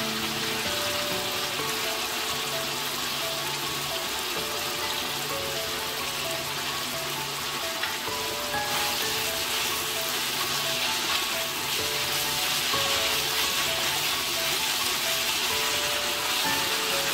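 Tofu, chopped garlic and dried chilies sizzling in hot oil in a nonstick frying pan, a steady hiss that gets louder about halfway through. Light background music plays under it.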